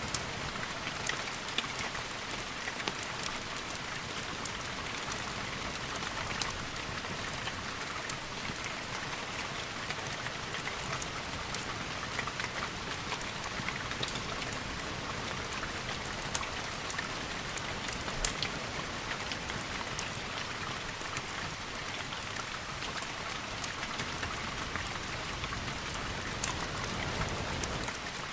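Steady rain falling on a hard surface, an even hiss scattered with sharp ticks.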